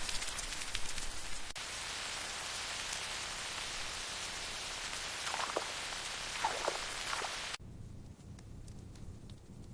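Steady heavy rain falling, with two brief falling tones about five and six and a half seconds in. The rain cuts off suddenly about seven and a half seconds in, leaving a much quieter low rumble with faint scattered ticks.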